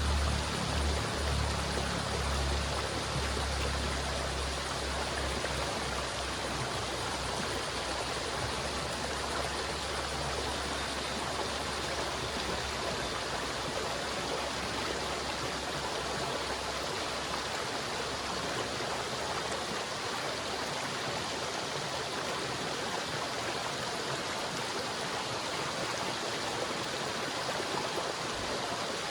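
River water flowing and rushing steadily. A low rumble underneath fades out over the first several seconds.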